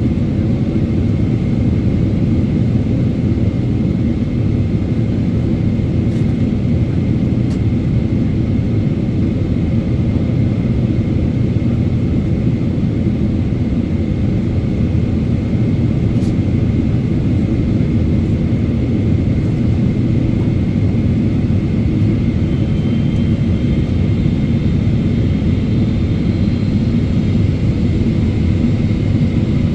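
Steady in-flight cabin roar of a Boeing 777-300ER heard from a forward window seat: its GE90 engines and the airflow over the fuselage make a constant deep rumble, with a thin steady whine above it and a few faint ticks.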